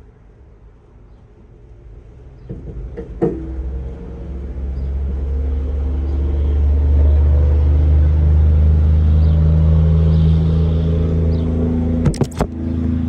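Honda B18C 1.8-litre four-cylinder VTEC engine with an aftermarket exhaust, running steadily. It comes up after a sharp knock about three seconds in, grows louder over the next few seconds, then holds an even drone. A few sharp clicks sound near the end.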